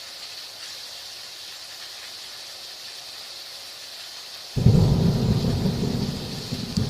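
Heavy rain hissing steadily; about four and a half seconds in, thunder breaks in suddenly and loud and keeps rumbling.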